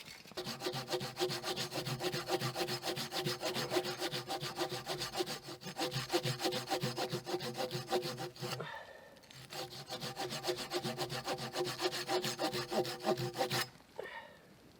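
Wood being sawn by hand in rapid back-and-forth strokes, with the blade ringing faintly. The sawing runs for about eight and a half seconds, pauses briefly, then goes on for about four seconds more.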